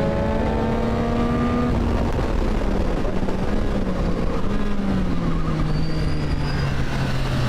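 Motorcycle engine running with its revs falling slowly and steadily, over heavy wind rumble.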